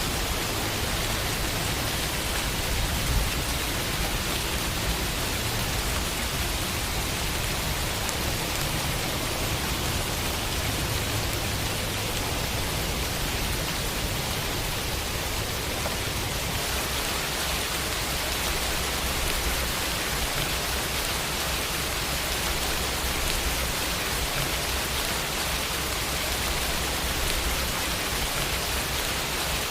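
Steady rain falling on a window pane.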